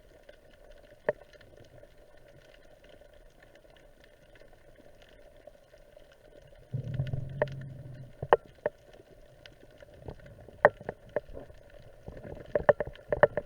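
Underwater sound from a spearfishing dive: a faint steady hum with scattered sharp clicks and knocks. A low rumble sets in about seven seconds in and lasts a second or so, and the clicks come thicker near the end.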